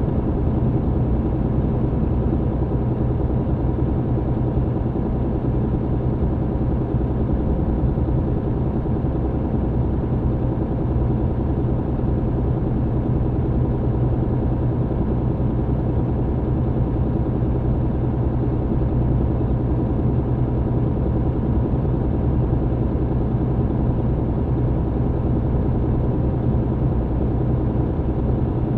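MAN TGX truck's diesel engine heard from inside the cab, running steadily at an even speed with road noise underneath. A constant low drone with no change in pitch.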